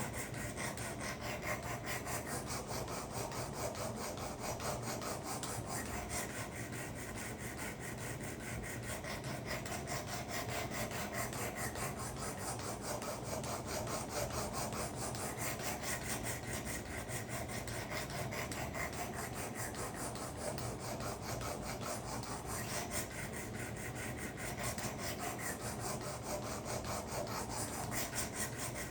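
Sharpening stone of a Work Sharp guided sharpener rasping along a steel karambit blade in quick repeated strokes, grinding metal off the edge while the burr raised on the first side is worked off.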